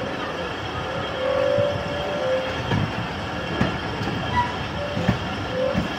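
Khyber Mail passenger train running along the track, heard from inside a carriage: a steady rumble of wheels on rails with a few separate knocks, and brief squeals about a second in and again near the end.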